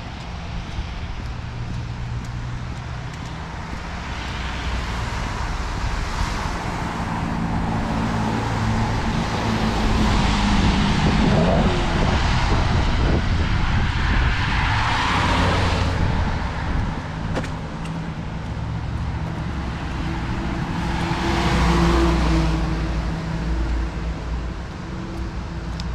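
Road traffic passing on a wet street: cars go by with tyre hiss and engine hum. The loudest pass comes about halfway through, with another swell a few seconds before the end.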